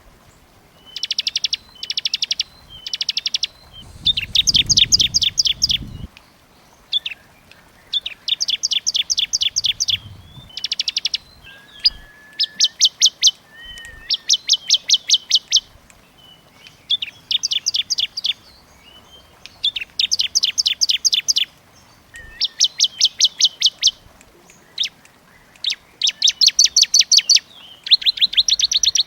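Small songbird calls: repeated bursts of rapid, high trilling chips, each burst lasting one to two seconds, with short pauses between them.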